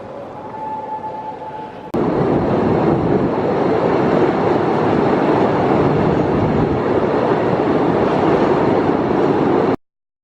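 Postojna Cave's open tourist train running through the cave tunnel: a loud, steady rushing rattle that starts suddenly about two seconds in and cuts off abruptly near the end. Before it there is a quieter stretch with a faint steady tone.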